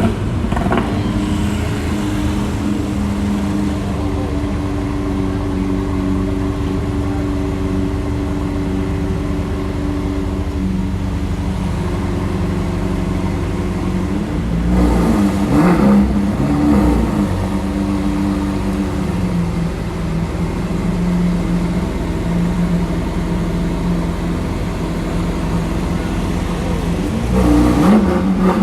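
Sports car engine idling steadily, with throttle blips revving it up and back down about halfway through and again near the end.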